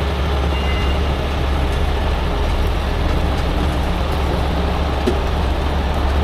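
Heavy-duty tow truck diesel engines running steadily with a deep, even rumble, under a constant hiss of road and rain noise.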